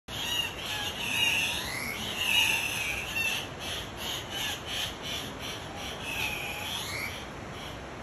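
Andean cock-of-the-rock calling: harsh squawks that rise and fall in pitch, the loudest near the start and at about two seconds, with another around six seconds. A run of quick repeated notes, about three a second, fills the middle, over a steady high hiss.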